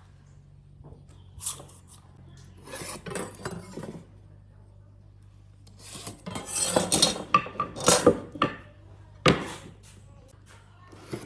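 Intermittent scraping and clattering of hard objects in short bursts, busiest about six to eight seconds in, with one sharp knock about nine seconds in.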